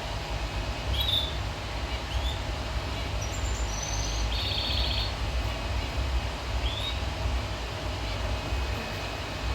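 Finch calling in short, scattered chirps, with a brief rapid trill about four to five seconds in, over a steady low rumble.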